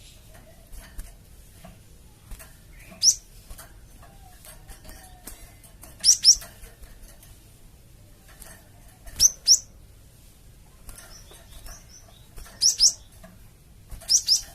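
Cinereous tit (gelatik batu) calling: sharp, high, quickly falling notes, a single one and then mostly in pairs, repeated about every three seconds over faint background chirping.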